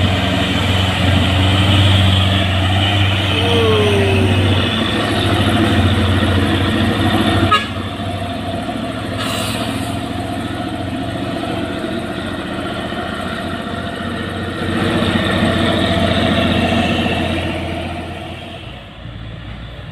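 Heavy diesel trucks climbing a hill under load, their engines running with a strong low drone as they pass one after another. There is a sharp click about seven and a half seconds in, after which it eases a little; it swells again about fifteen seconds in and fades near the end.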